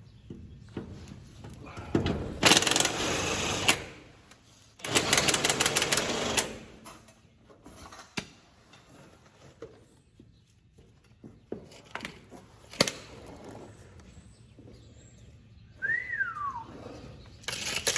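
A power wrench rattling on bolts in two bursts of about a second each, the second a fast run of rapid strikes, followed by scattered knocks and a short falling squeak near the end.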